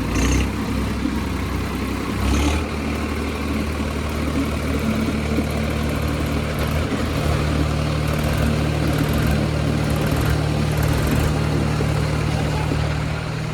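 Diesel tractor engines running hard and steady under heavy pulling load in a tractor tug-of-war between a Massey Ferguson 4x4 and a Swaraj 855. Two brief hissing bursts come near the start and about two and a half seconds in.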